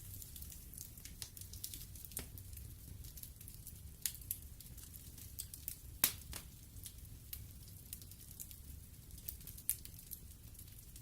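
Wood fire burning in an open fireplace, crackling with irregular sharp pops and snaps over a faint low rumble and hiss; the loudest pop comes about six seconds in.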